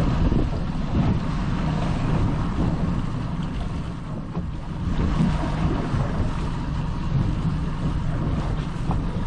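Wind buffeting the microphone over a boat's motor running steadily at trolling speed.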